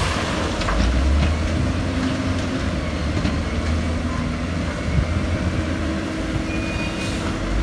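Heavy diesel earthmoving machinery running under load, with a steady deep engine rumble and a brief high squeal near the end.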